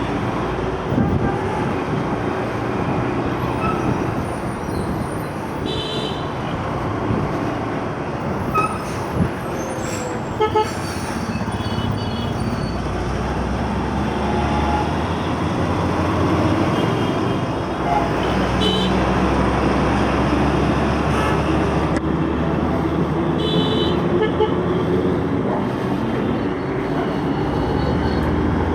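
Motorcycle riding through traffic: steady engine, road and wind noise, with a few short horn beeps from surrounding vehicles.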